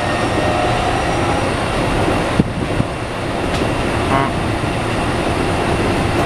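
Keikyu 1500 series electric commuter train running at speed, heard from inside the passenger car: a steady rumble of wheels on rail, with one sharp knock about two and a half seconds in.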